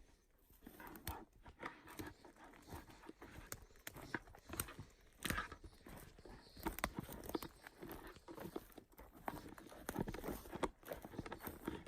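Footsteps crunching through the forest undergrowth, with dry twigs and debris crackling and snapping underfoot in an irregular run of sharp clicks.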